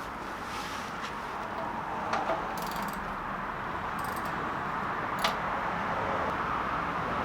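A few light metallic clicks and jingles, as from hand tools being handled, over a steady hiss.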